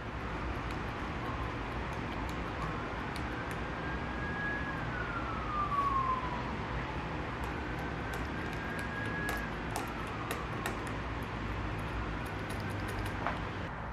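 Emergency-vehicle siren wailing, one tone slowly rising, holding and falling about three times, over a steady low hum with a few light clicks.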